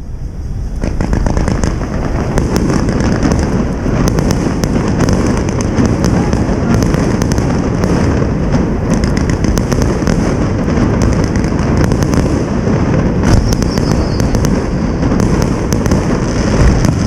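Fireworks display: a dense, continuous barrage of low bursts with many sharp cracks and crackles, rising in level during the first second.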